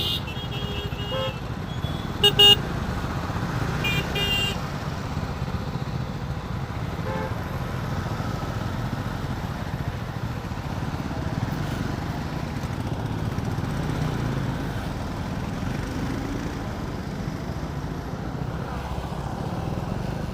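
KTM Duke 390 single-cylinder motorcycle riding along the road, a steady engine rumble mixed with wind noise. Short vehicle horn honks come about two seconds in, the loudest moment, and again about four seconds in.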